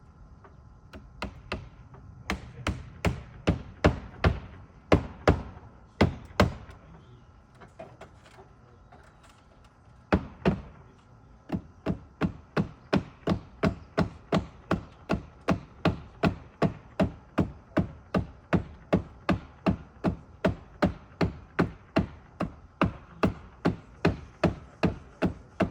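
Hammer blows driving nails into a replacement cedar roof shake: a run of strikes about two a second, a pause broken by a single blow, then a long steady run of about two blows a second.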